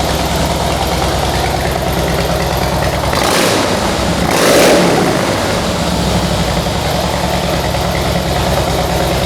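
2008 Harley-Davidson Heritage Softail Classic's 96-cubic-inch V-twin idling through aftermarket mufflers, with two short throttle blips about three and four and a half seconds in.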